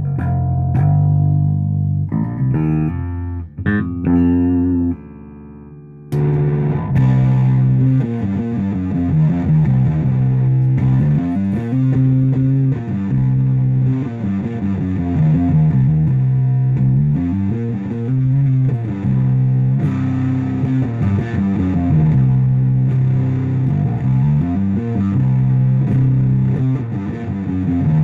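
Rivolta Mondata Deluxe electric bass played through a 1962 Fender Bassman amp stack: a run of plucked bass notes in a repeating riff. About five seconds in the sound drops away for a moment, then the playing comes back with a brighter tone.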